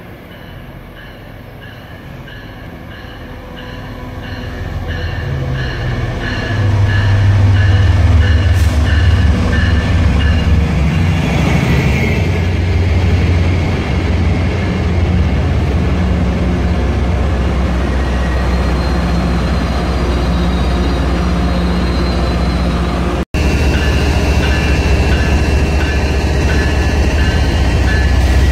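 MBTA diesel-hauled commuter rail train passing at close range. A bell rings about twice a second as it approaches, then the heavy low rumble of the locomotive and the clatter of bi-level coaches build and hold. After a sudden break about 23 s in, a locomotive passes with its bell ringing again over the engine rumble.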